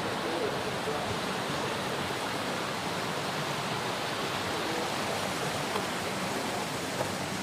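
Steady rush of whitewater rapids on a canoe slalom course.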